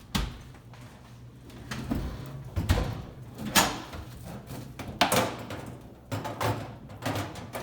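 An over-the-range microwave being hooked onto its wall mounting bracket: a series of separate knocks and clunks, with scraping between them. The loudest come about three and a half and five seconds in.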